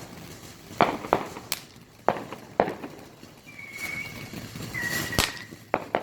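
Consumer fireworks going off: a string of sharp, unevenly spaced bangs, with two short steady whistles about halfway through, the second cut off by a loud bang.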